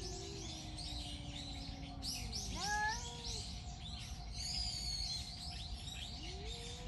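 Small birds chirping and twittering continuously, with long, low, drawn-out gliding calls beneath them and a short rising call about two and a half seconds in.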